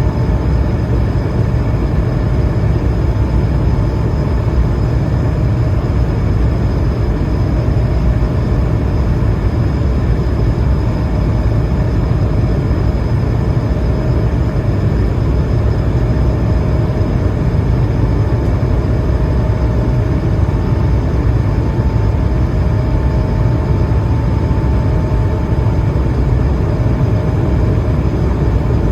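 Cabin noise inside an Airbus A220-300: its Pratt & Whitney geared turbofan engines and the airflow make a steady, loud rumble, with a few faint whining tones held throughout.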